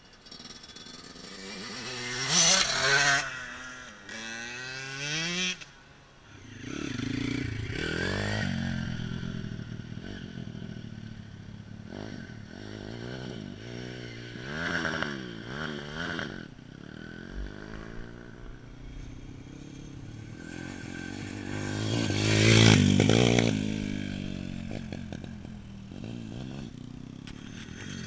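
Dirt bike engine revving up and down as it is ridden, its pitch rising and falling again and again. It is loudest twice, about two to three seconds in and again around twenty-two seconds in, as it comes close.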